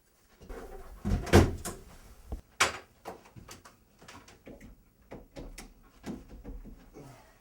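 A door being opened and shut, with a few sharp knocks and bangs about a second in, followed by a run of light, irregular clicks and taps.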